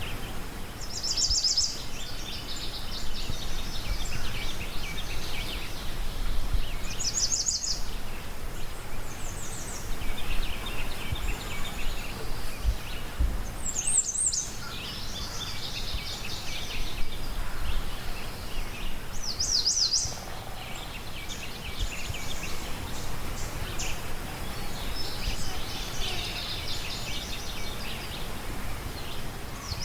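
Several songbirds chirping and trilling, with a short bright trill every five or six seconds and quieter chatter between, over a steady outdoor background hiss with a low rumble underneath.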